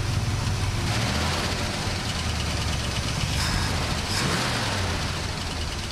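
1967 Buick GS 340's V8 engine idling steadily on fresh oil, its lifter tap almost gone.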